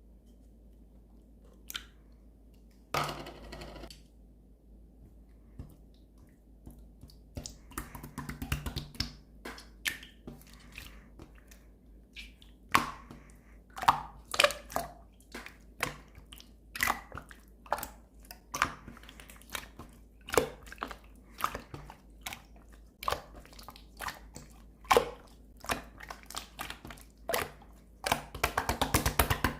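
Clear slime being squished and pressed by hand, making irregular wet clicks and pops that come more often as it goes on, ending with a fast run of rapid pops.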